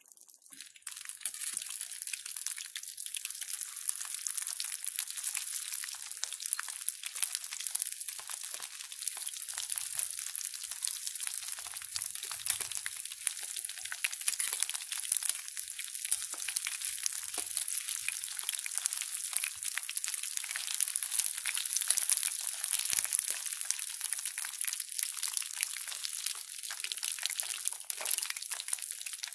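Battered fish pieces sizzling in hot oil in a small camping pan, a dense, steady crackle of spitting oil that starts about a second in.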